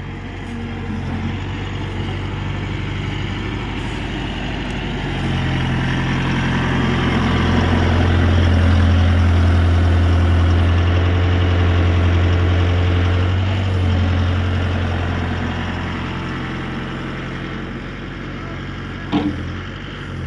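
Mahindra 605 4WD tractor's diesel engine running steadily, growing louder for several seconds mid-way and then easing back. A single short knock near the end.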